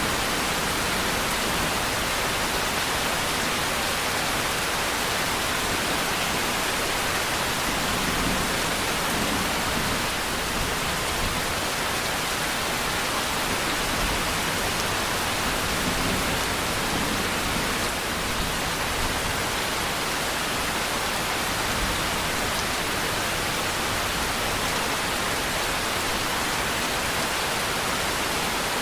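Steady, even rain with no thunder or distinct drops.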